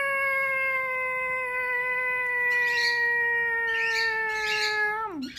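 A long, drawn-out "aaah" cry from a person voicing a toy character being thrown. The cry holds one high pitch for about five seconds and drops off near the end. A few short bird chirps sound over it about halfway through and again a little later.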